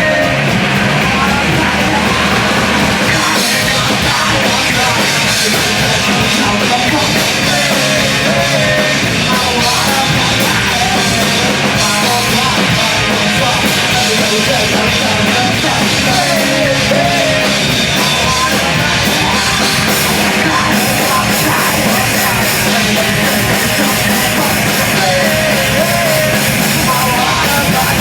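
Live punk/hardcore band playing loudly and steadily: distorted guitars, bass and drums, with yelled vocals at times.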